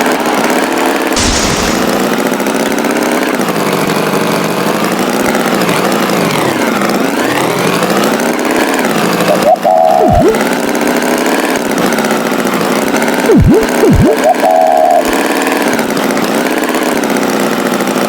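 Animated tractor engine sound effect running without a break, its pitch sinking in the middle and climbing back. A few quick falling sweep effects cut in about ten and fourteen seconds in.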